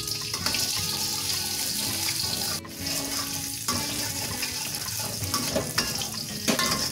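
Chopped shallots and garlic sizzling in hot oil in a wok, a steady hiss, while a metal spatula stirs and scrapes them with small clicks against the pan.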